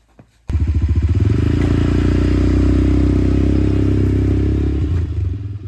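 A motorcycle engine starts abruptly about half a second in and runs close by with a rapid, steady pulse, then fades near the end as it pulls away.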